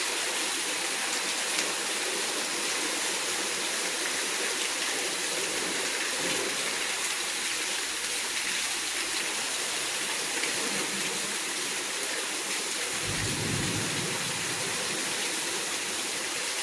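Steady rain falling in a thunderstorm, an even hiss throughout, with a brief low rumble about thirteen seconds in.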